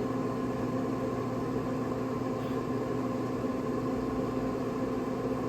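Traeger Scout pellet grill's combustion fan running steadily at start-up, a constant motor hum with a few fixed tones while the grill tries to ignite and heat up.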